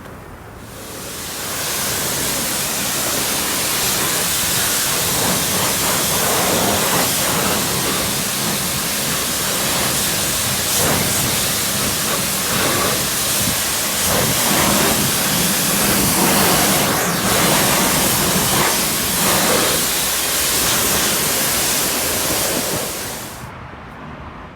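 Water spraying hard and hissing steadily against a car body, starting about a second in and cutting off shortly before the end.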